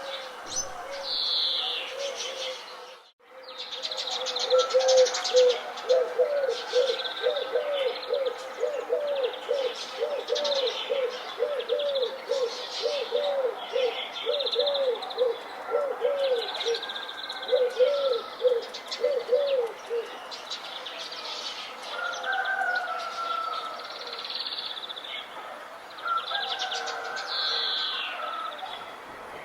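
Mixed birdsong chorus: many small birds chirping and trilling throughout, with a low call repeated about twice a second from about four seconds in until about twenty seconds in. The sound cuts out briefly about three seconds in.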